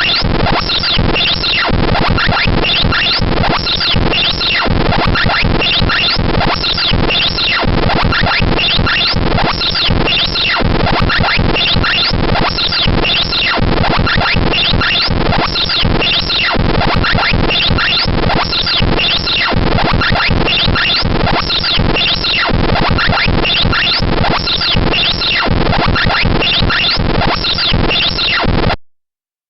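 Harsh computer-generated noise from a joke malware program, bytebeat-style: a dense, grating loop with rapid repeating falling sweeps. It cuts off suddenly about a second before the end.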